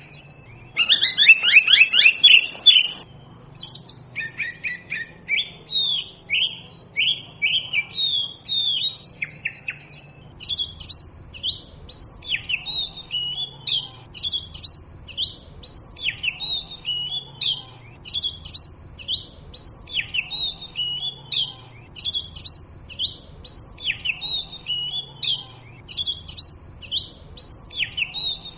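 Oriental magpie robin singing: varied whistled phrases, with a loud run of rapid falling notes about a second in, then short phrases repeated about once a second from about ten seconds in.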